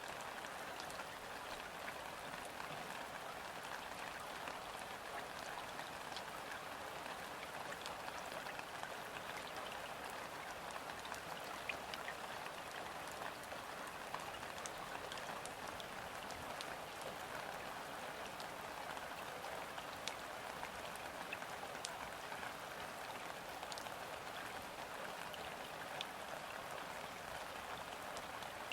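Gentle rain falling steadily on a river's surface: a dense, even patter with scattered sharper single drops ticking through it.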